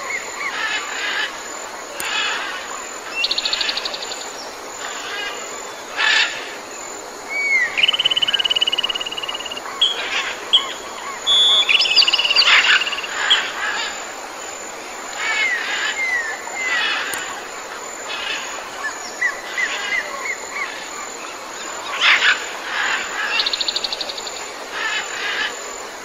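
Squirrel calls: high-pitched chirps, short rising squeaks and rapid chattering trills, repeating, with a few sharp clicks.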